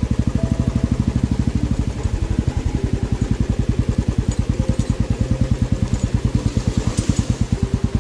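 Royal Enfield motorcycle engine running at an even, low beat of about ten pulses a second as the bike is ridden.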